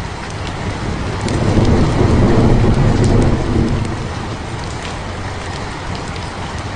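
Steady heavy rain with scattered drops ticking on a surface, and a low rumble of thunder that swells about a second and a half in and fades a couple of seconds later.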